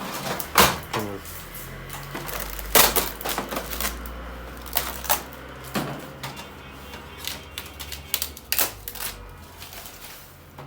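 Irregular clicks, taps and knocks of parts and packing being handled as a photocopier is unpacked.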